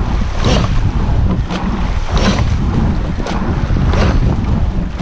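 Racing rowing shell under way at race pace: a swish and clunk of oars and gates with each stroke, repeating about every second and three-quarters, over heavy wind rumble on the microphone.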